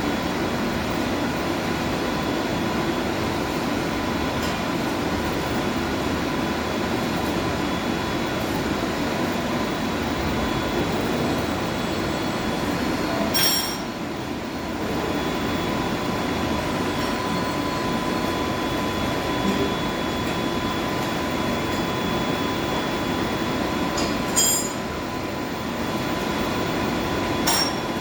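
Steady drone of boiler-house machinery running, with three short sharp metallic clicks: one about halfway through and two near the end.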